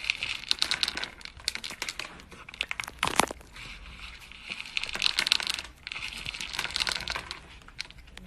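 Crinkling, crackling rustle made of many small irregular clicks, with one sharper, louder crack about three seconds in.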